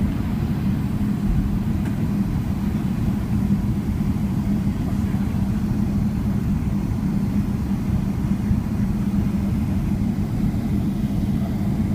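Steady low rumble of a Boeing 777-300ER's GE90 engines and airflow heard from inside the passenger cabin, with a constant hum.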